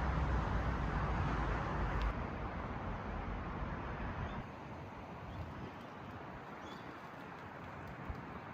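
Steady outdoor background noise. A heavy low rumble fills the first four seconds or so, then drops away, leaving a quieter hiss with a few faint bird chirps.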